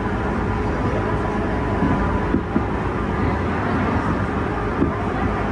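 Steady running noise inside a JR 201 series electric commuter train in motion, the wheels rumbling on the rails, with two brief clunks about two and a half and five seconds in.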